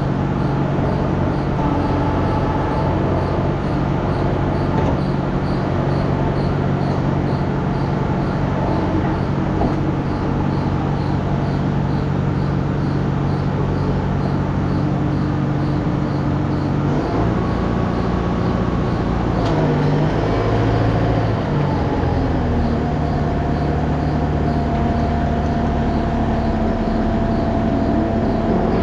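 Farm tractor's diesel engine running steadily, its pitch shifting and settling at a new level about two-thirds of the way through.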